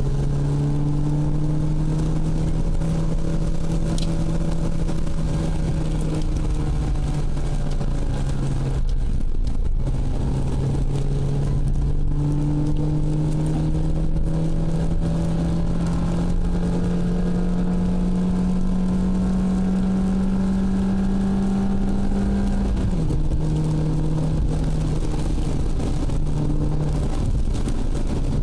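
A Ford Puma's engine running under load, heard from inside the cabin, its note climbing slowly as the car gathers speed. The note breaks off briefly about nine seconds in and drops sharply in pitch near 23 seconds, as at gear changes. Steady tyre and road noise lies underneath.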